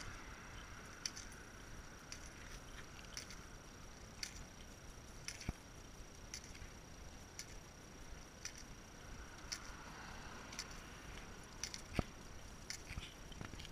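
Small metal tags on a dog's collar jingling faintly in light clicks, roughly one a second, as a corgi moves about, over a faint steady high-pitched whine.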